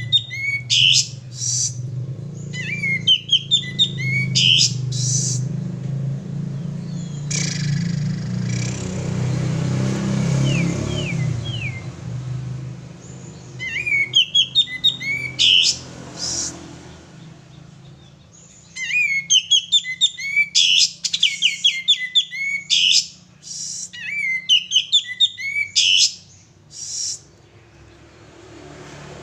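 Male kapas tembak songbird singing in bursts of rapid, chattering chirps, several phrases a few seconds apart with pauses between them. A low steady hum runs underneath, strongest in the first half, with a brief rushing noise around the middle.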